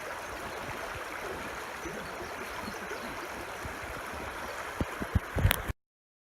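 Mountain trout stream running over rocks, a steady rush of water. Near the end come a few short low knocks, then the sound cuts off abruptly.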